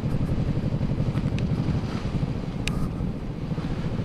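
Suzuki Boulevard C90BT's V-twin engine running at a steady pace as the motorcycle is ridden, with wind noise on the microphone.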